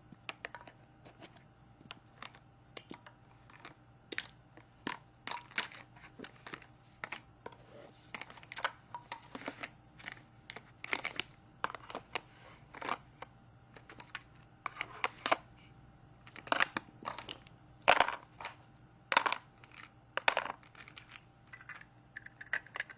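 Plastic toy pieces of a Fisher-Price Mack toolbox truck playset clicking and clattering as they are handled and packed away, in irregular knocks and taps with a few louder clacks a little past the middle.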